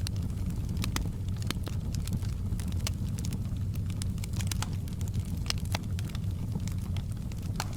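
Wood fire burning in a fireplace: a steady low rumble of flames with scattered sharp crackles and pops, several a second at irregular spacing.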